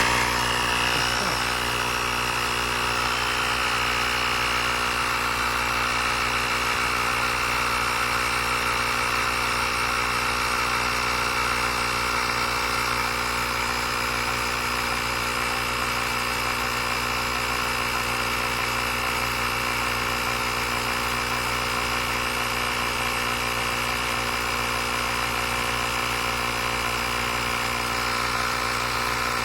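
The built-in air compressor of a YaberAuto 150 PSI jump starter runs steadily, a constant, even motor-and-pump drone, as it pumps air up to a preset pressure of 2.1 bar.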